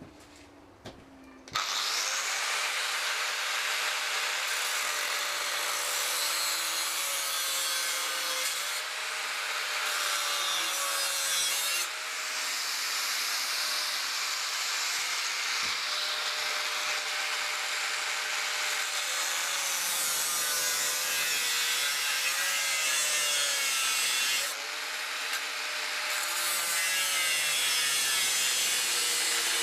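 A power tool cutting through a motorcycle frame tube. It starts about a second and a half in and runs without a break. Its motor pitch sags and recovers several times as it is pushed into the cut.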